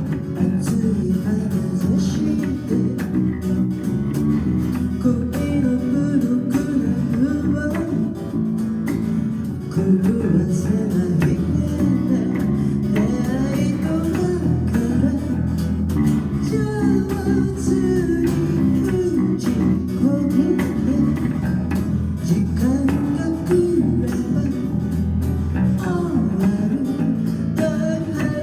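A band playing a pop song on electric guitar and bass guitar, mostly instrumental, with no lyrics sung.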